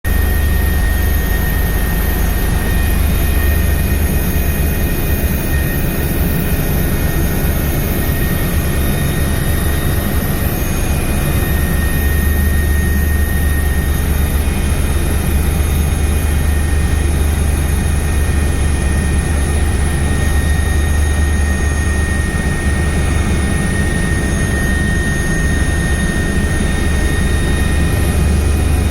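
Steady aircraft engine drone: a deep hum with a thin, high turbine whine over it, unchanging throughout.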